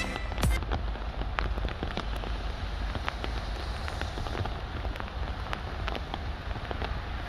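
Steady rain falling on wet pavement and foliage, with many scattered sharp drop ticks and a low rumble underneath.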